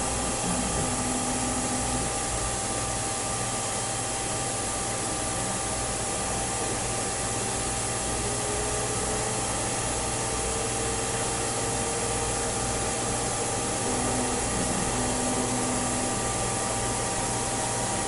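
Machine tool running steadily in a metal-working shop: an even whirring hiss with a few held tones, and a faint tone that rises slowly in the middle.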